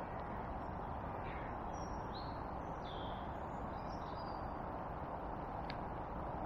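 A few small birds chirping in short calls and quick pitch glides over a steady rushing background noise, with a single faint click near the end.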